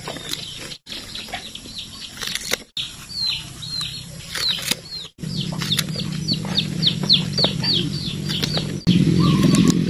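A bird chirping in quick series of short, high, falling chirps, about three a second, over a few sharp snips of a knife cutting through green onion stalks. A low steady hum comes in about halfway through and grows louder near the end.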